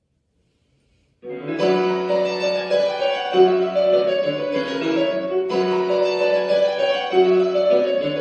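Piano starts playing about a second in, a phrase of held chords that begins again about four seconds later.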